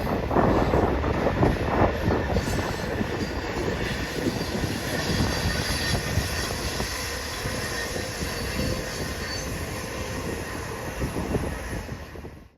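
Passenger train rolling over the elevated track at a junction, a steady rumble of wheels on rail with faint wheel squeal, slowly fading as it moves away; the sound cuts off suddenly near the end.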